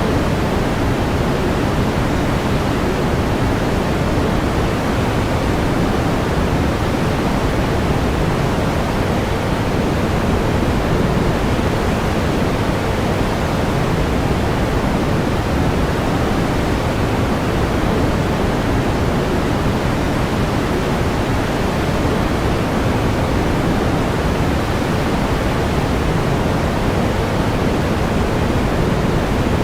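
Steady pink noise: an even, unbroken hiss weighted toward the low end, with no change in level.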